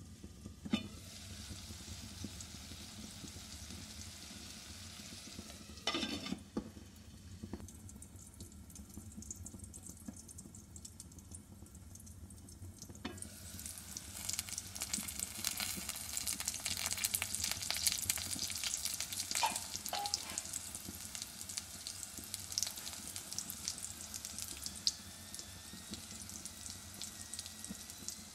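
Egg, potato strips and bell peppers sizzling in oil in an aluminium karahi on a gas burner: a muffled hiss while the lid is on, with a couple of sharp metal knocks, then a louder crackling sizzle from about halfway once the lid is off.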